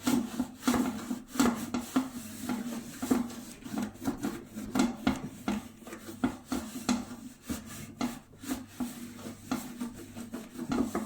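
A fibre cleaning cloth being rubbed hard back and forth over the microwave's surface, in quick repeated scrubbing strokes of about one to two a second.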